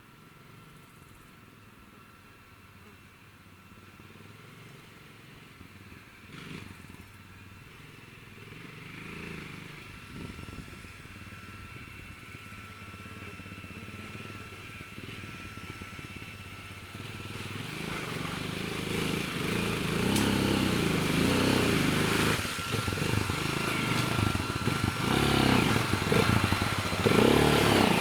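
Racer Panther motorcycle engine, growing steadily louder as it comes closer. In the last ten seconds it is loud and its note rises and falls unevenly.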